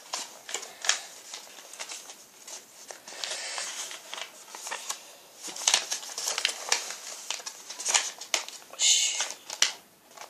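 A sheet of paper being folded and creased by hand: irregular rustles, crinkles and short scrapes, with a longer hiss about nine seconds in.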